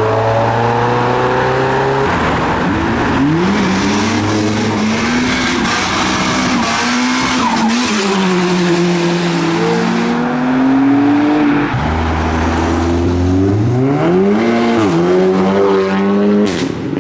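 Modified cars' engines revving and accelerating past, their pitch climbing and dropping several times, with a loud rushing noise through the middle stretch. A steady low idle comes in between the pulls, and a final sharp rev comes near the end.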